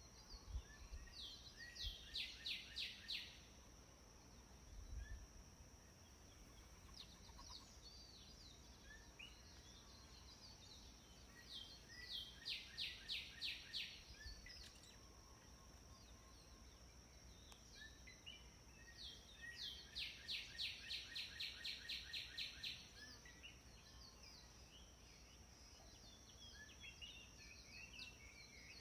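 Songbirds singing: three runs of quick, evenly repeated notes, about four to five a second, the last and longest around two-thirds of the way in. Scattered short chirps fill the gaps, over a faint steady high-pitched tone.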